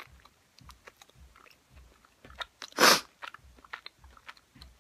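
Close-up biting and chewing of hot chicken wings: wet mouth clicks and soft jaw thumps about twice a second. A short, loud burst of noise cuts in about three seconds in.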